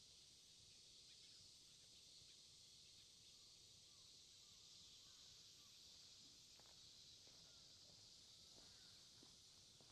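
Faint, steady high-pitched chirring of an insect chorus, with a few soft, short bird chirps and light ticks now and then.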